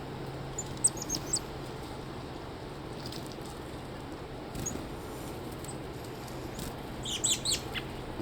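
Chickadees giving short, high chirps, a few about a second in and a quick flurry near the end.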